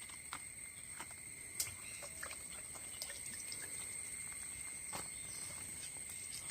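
Faint steady high-pitched insect chirring, typical of crickets, over a quiet background hiss, with a few light clicks from handling.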